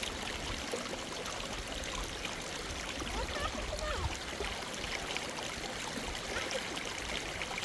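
Steady rush of flowing water, unbroken throughout.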